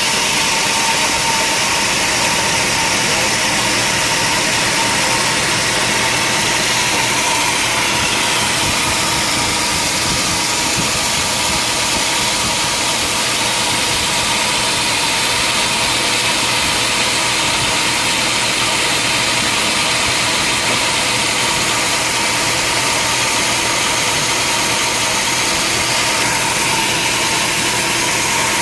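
Sawmill machinery running steadily, a loud even mechanical noise with a constant high hum.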